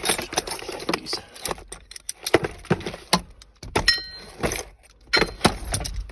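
Metal clinking and clattering: hand tools or metal parts being picked up and put down, a quick run of knocks and clicks, with one ringing clang about four seconds in.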